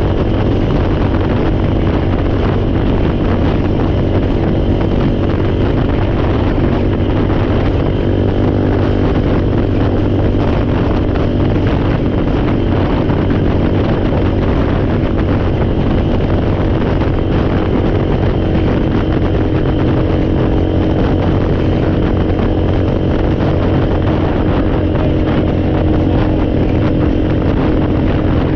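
ATV (four-wheeler) engine running at a steady idle, with an even tone and no revving.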